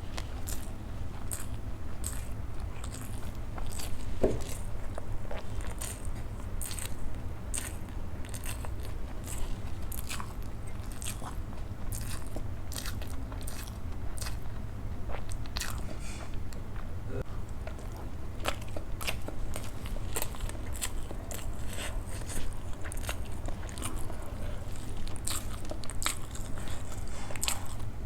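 Close-miked chewing and mouth sounds of someone eating idli with sambar and chutney: a constant run of small irregular clicks and smacks. A steady low hum runs underneath.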